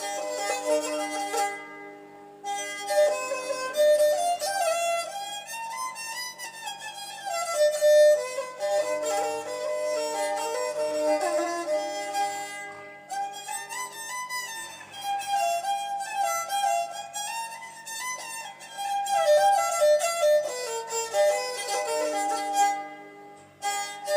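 Nepali sarangi, a bowed folk fiddle, playing a melody in sustained, wavering notes. The phrases break off briefly about every ten seconds.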